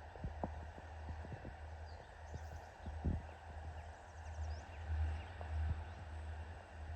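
Wind rumbling on the microphone, with a dozen or so scattered, irregular taps or knocks, the loudest about three seconds in, and a few faint high chirps.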